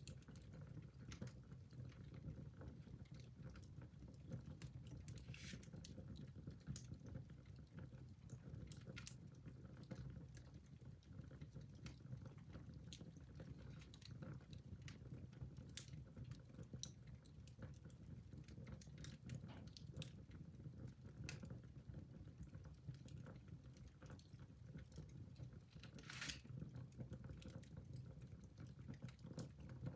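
Wood fire burning in a fireplace: a faint low steady rumble with scattered crackles and small pops, and one louder pop near the end.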